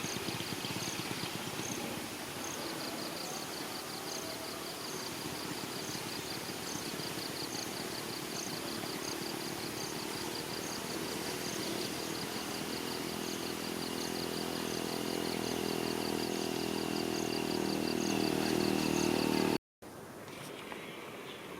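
A motor vehicle's engine running and growing steadily louder, with insects chirping in an even pulsing rhythm over it; the sound cuts off suddenly near the end.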